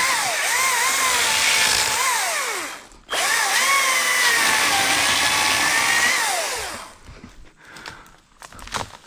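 ECHO DCS-2500T battery top-handle chainsaw cutting into a dead tree. The electric motor's whine sags in pitch as the chain bogs in the wood and recovers, stops briefly about three seconds in, starts again, then winds down with a falling pitch. A few light clicks and crackles follow near the end.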